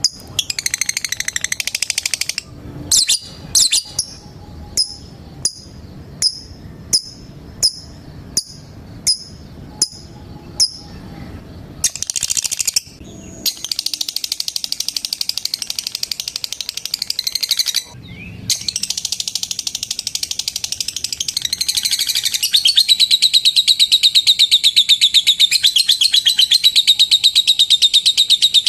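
Lovebird calling: sharp single chirps repeated about twice a second, then, from about halfway, a long unbroken rapid chattering trill that grows louder near the end. This is the long 'ngekek' trill prized in singing lovebirds.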